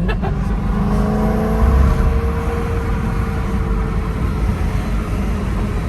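BMW E90 M3's 4.0-litre V8 with a custom exhaust, heard from inside the cabin, running at a steady drone at part throttle. Its pitch holds and then sags slowly as the car eases off.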